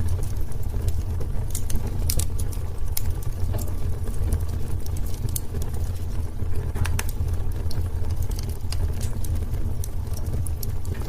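Wood fire burning in a fireplace: a steady low rumble of the flames with frequent irregular crackles and sharp pops from the burning wood.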